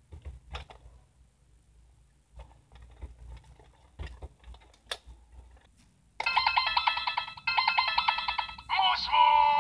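Plastic clicks and knocks as a DX Gundephone50 toy phone is handled and switched. About six seconds in, its speaker plays a loud trilling electronic ringtone in two bursts, followed by warbling electronic tones whose pitch bends up and down.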